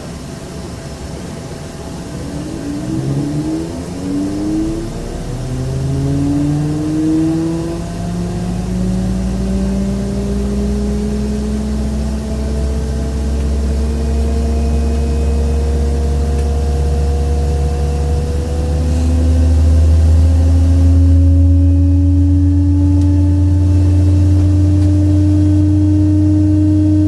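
Embraer ERJ-135's Rolls-Royce AE3007 turbofan starting, heard inside the cabin: a whine of several tones rising in pitch from a few seconds in as the engine spools up, growing louder. Near the end a deeper tone steps up again and the sound grows louder still.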